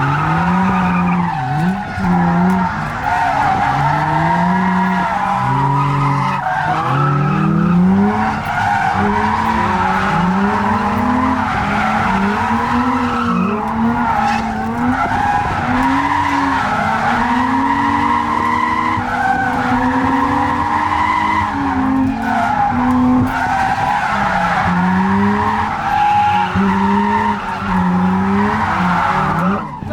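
Nissan G35's VQ35 V6 engine heard from inside the car, its revs rising and falling again and again under hard throttle while drifting. Tyre squeal and skid noise run under it.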